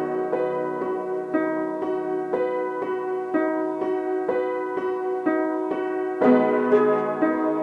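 Piano playing a gentle piece, single notes struck about twice a second over a held low note, louder with a new low note a little after six seconds.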